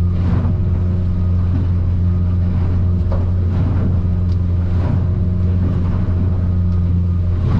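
Outboard motor on a Stabicraft 2050 Supercab aluminium boat running at a steady cruising pitch, a loud, even low drone heard from inside the cabin. A few brief splash sounds cut in over it about every two seconds as the boat crosses rough swells.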